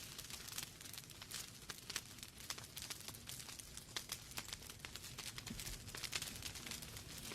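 Wood fire burning in a fireplace: irregular sharp crackles and pops from the burning logs over a soft low rumble of the flames.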